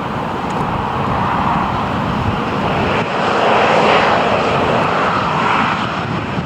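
Airliner engines running with a steady roar that swells about three seconds in and eases off slightly toward the end.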